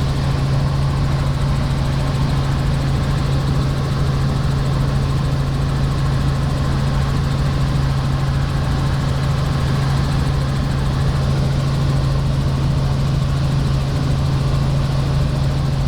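Helicopter in flight heard from inside the cabin: a steady, loud drone of rotor and engine with a constant low hum under an even rushing noise.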